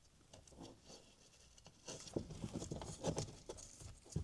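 Faint, scattered small clicks and taps of hand tools working the retaining clip on the oil cooler line fitting, sparse at first and busier from about two seconds in.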